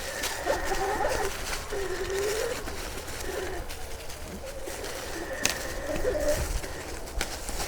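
Sur Ron Light Bee electric motorcycle's motor whining, its pitch sliding down and up with the throttle as it rides off-road, over scattered clicks and rattles.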